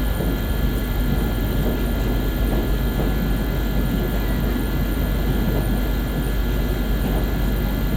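Electric KTM commuter train in motion, heard inside the carriage: a steady low rumble with a thin steady whine above it.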